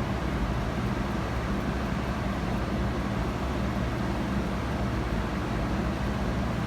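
Steady low droning hum of a running machine over an even background noise, unchanging throughout.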